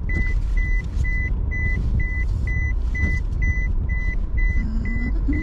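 Electronic warning beeps, one high tone repeating evenly about twice a second, over the steady low rumble of a vehicle.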